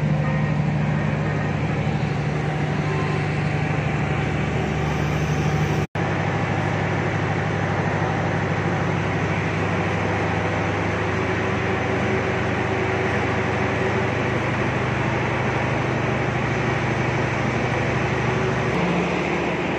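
Steady low hum of a diesel-hauled passenger train standing at a station platform, its engines and carriage air-conditioning running at idle. The sound cuts out for an instant about six seconds in and resumes with a slightly lower hum.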